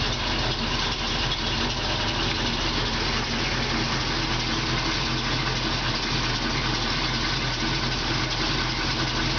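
First-generation Chevrolet Monte Carlo's V8 engine idling steadily.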